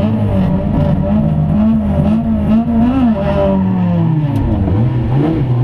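Lada rally car's four-cylinder engine, heard from inside the cabin, revved in quick repeated blips while the car stands still, then held in longer, slower rises and falls.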